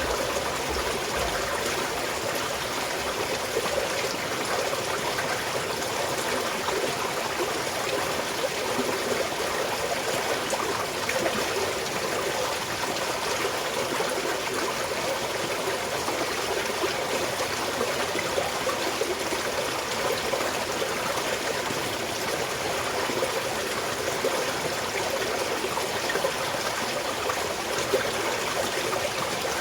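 A small mountain stream flowing and trickling steadily, with a continuous babble of water over stones.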